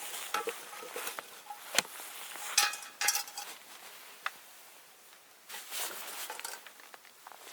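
Sharp clinks and knocks of metal camp cookware or utensils being handled, a few separate strikes with a short ring, the loudest about two and a half seconds in.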